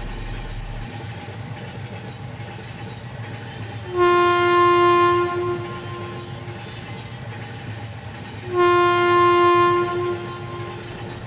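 Train horn sounding two blasts of about a second and a half each, the first about four seconds in and the second about four and a half seconds later. Steady running noise of the train lies between them.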